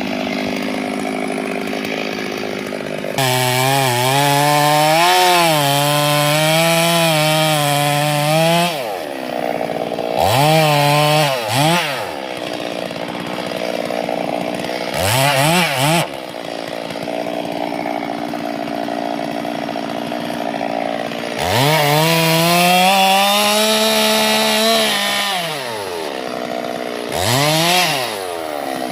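Two-stroke chainsaw idling and repeatedly revved. Twice it is held at high revs for several seconds, about 3 s in and again after about 21 s, its pitch wavering as it cuts through wood. In between there are several short throttle blips.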